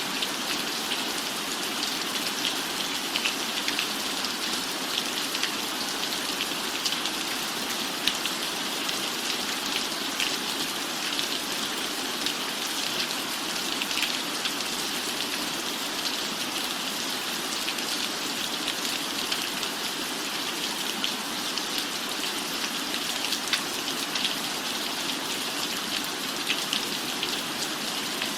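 Steady rain falling on a surface: an even hiss with many small drop ticks scattered throughout.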